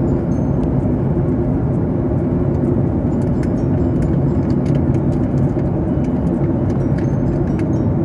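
Steady drone of an airliner cabin in flight: engine and airflow noise with a low hum running through it, and a few faint clicks.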